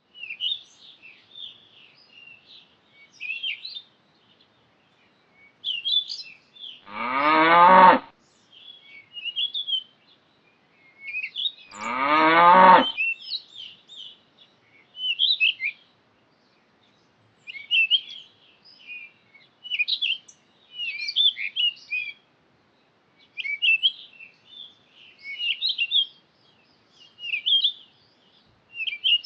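Cow mooing twice, each call about a second long and rising in pitch, some five seconds apart, over continuous bird chirping and twittering.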